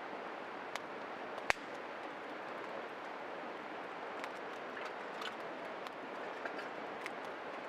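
Small wood fire crackling: a steady hiss with scattered sharp pops, the loudest about a second and a half in.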